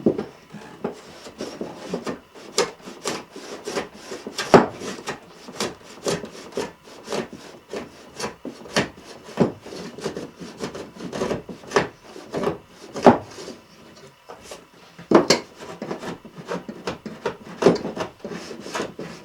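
Hand tool scraping repeatedly over wood while an oak repair piece is shaped to fit: short, irregular strokes, roughly one or two a second, some louder than others.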